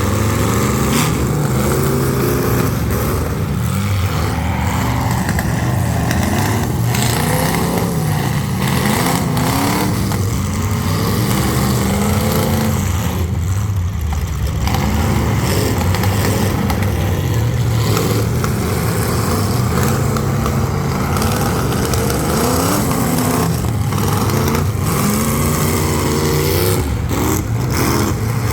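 Several full-size demolition derby cars' V8-type engines running hard at once, revving up and down over one another, with a few sharp bangs scattered through.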